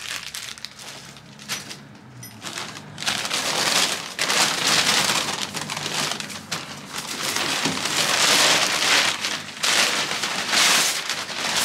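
Packaging rustling and crumpling in uneven swells as fire pit kit parts are pulled out of their wrapping.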